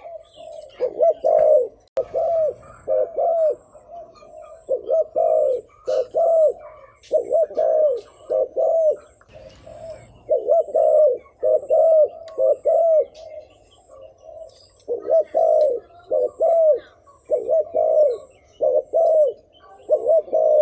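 Spotted dove cooing: short arched coos repeated in quick runs of two to four, with brief pauses between runs. This is the rapid 'thúc gù' coo, used as a decoy call to draw wild spotted doves.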